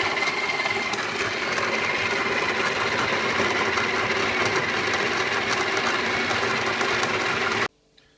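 Breville BES860's built-in conical burr grinder grinding coffee beans into the portafilter basket: a steady grinding whir with a faint high whine that cuts off suddenly near the end.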